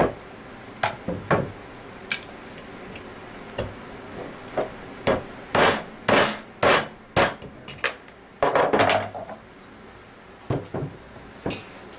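Screwdriver knocked and pried against a scroll pump's shaft seal to force it out of its bore: a run of irregular sharp knocks and scrapes, with a longer scraping stretch about eight and a half seconds in.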